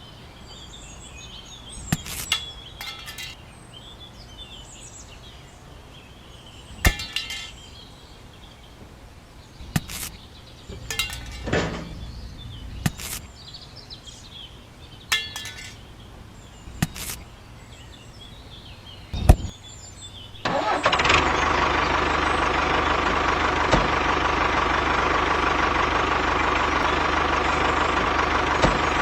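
Scattered sharp clicks and knocks with faint bird chirps, then about two-thirds of the way in a small motor starts abruptly and runs steadily with a constant whine.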